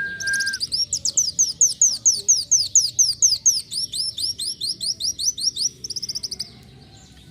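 Kolibri wulung sunbird singing a long, fast series of sharp descending high notes, about six a second, which breaks into a quicker, softer trill near the end before stopping. A steady whistled note sounds at the very start.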